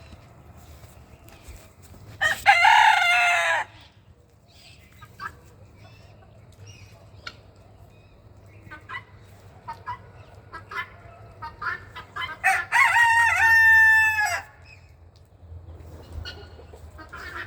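A rooster crowing twice, each crow a loud call of a second and a half to two seconds, one about two seconds in and one near the end. Short calls and clucks from other fowl come in between.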